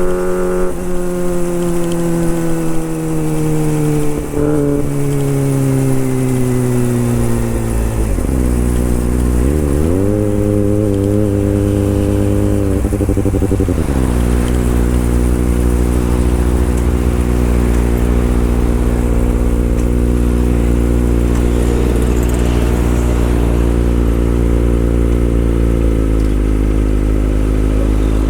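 Kawasaki Ninja ZX-25R's inline-four engine warming up. The revs sink slowly, then rise about ten seconds in and are held for a few seconds, then drop back to a steady idle.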